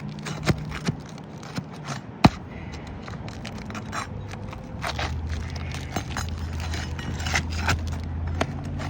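Nails being pried out of asphalt roof shingles with a metal tool: irregular metallic clinks and scrapes, with one sharp knock about two seconds in.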